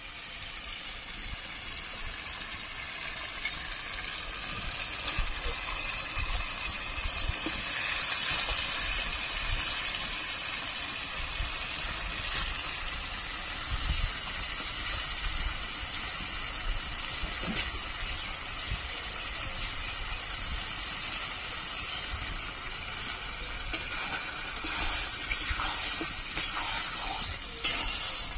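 Raw chicken pieces sizzling as they fry in a pan of hot oil and spice paste, growing louder over the first few seconds, with occasional clinks of a stirring spoon against the pan.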